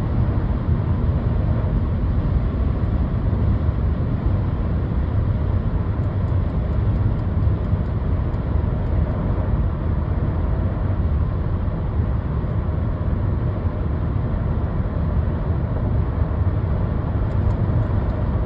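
Steady low road rumble inside the cabin of a 2008 Lexus ES350 driving along at a constant speed.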